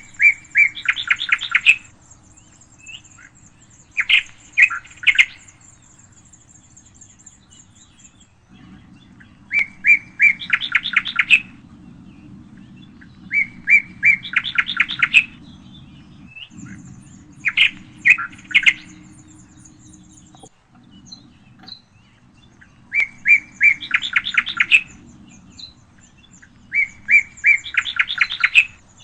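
A songbird singing the same short phrase over and over, about seven times, every four seconds or so. Each phrase is a couple of opening notes followed by a fast run of notes. A faint high, thin chirring goes on behind for much of the time.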